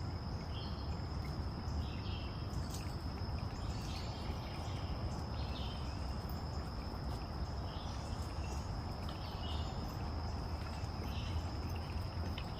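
Insects trilling in a steady, high, unbroken drone, with short chirps recurring about once a second, over a constant low rumble.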